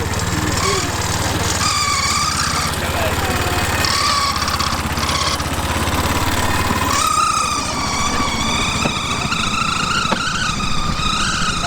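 Bamboo train's small motor running as the platform rolls along the rails, a steady low rumble with a wavering high-pitched whine over it. The sound changes about seven seconds in, when the low rumble drops away.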